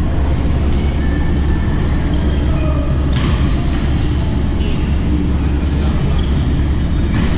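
Badminton racket strokes hitting a shuttlecock: sharp cracks about every one to two seconds, the loudest about three seconds in and near the end, over a steady low rumble.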